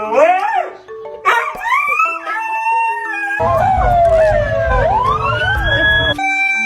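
Husky howling and yowling in curving, rising-and-falling pitch glides, with one long howl that falls and then rises again over a low rumble in the middle. Background music plays throughout, left alone near the end.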